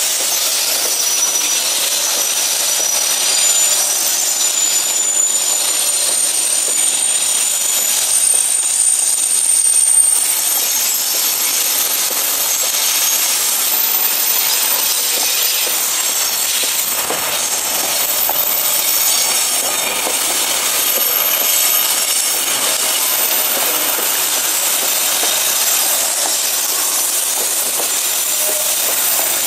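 Freight boxcars rolling past, with a steady noise of wheels running on the rails and thin, high-pitched wheel squeals coming and going as the wagons take the curve.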